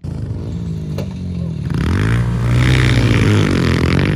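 Pit bike engine revving hard, its pitch climbing about two seconds in and then held high.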